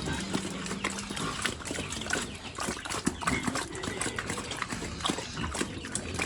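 Pigs eating wet vegetables and rice, a rapid irregular run of chomping, smacking and slurping.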